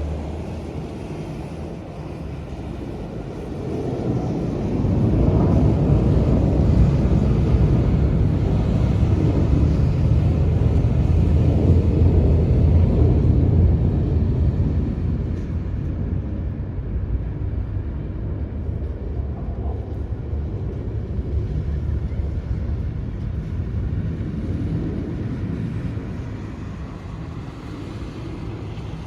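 Military fighter jets passing overhead: a deep engine rumble swells about four seconds in, stays loudest for about ten seconds, then slowly fades.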